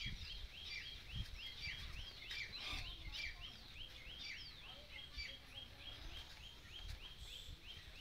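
Birds chirping, one repeating a short chirp steadily about four times a second, with a few low thumps.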